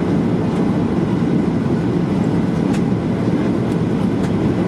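Steady low cabin roar inside a Boeing 737-800 airliner in flight, from its CFM56 turbofan engines and the airflow past the fuselage, with a few faint clicks.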